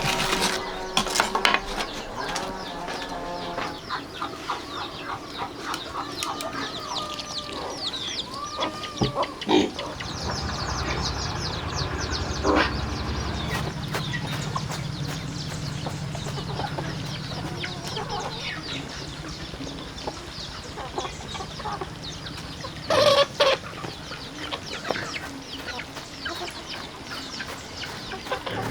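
Chickens clucking, with many short high chirps throughout and a low steady hum under the middle stretch.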